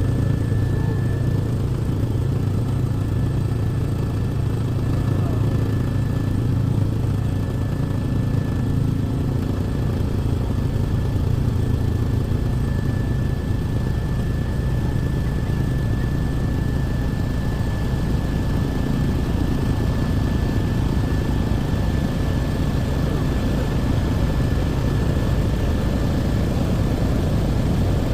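Helicopter running steadily in flight: an even, low engine and rotor drone with a thin high whine over it.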